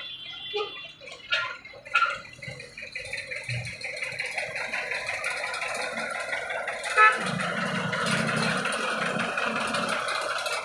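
Road traffic at a railway level crossing, with vehicles knocking and rattling over the rails. A few separate knocks come first, then the rattle builds. About seven seconds in there is a sharp loud knock, after which a dense, steady rattle with a low rumble continues.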